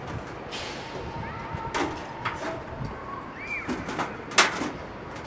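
A few sharp knocks over steady background noise, the loudest about four seconds in, with a short faint chirp just before it.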